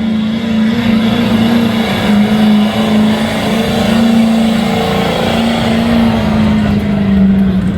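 Pulling vehicle's engine running hard at high, steady revs under load while dragging a weight sled down the track.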